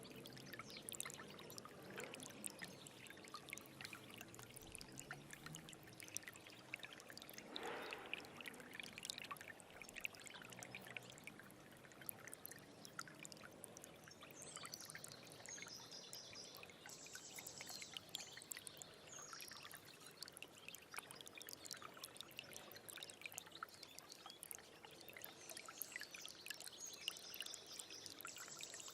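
Small stream trickling and splashing over rocks, a steady faint water sound full of small gurgles. A bird sings short high phrases twice, about halfway through and near the end.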